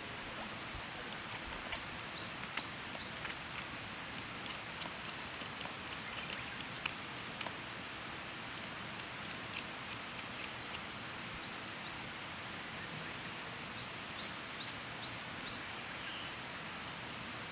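Small wood fire crackling with irregular sharp pops over a steady outdoor hiss, while a bird calls in short runs of quick rising chirps, a few seconds in and again in the second half.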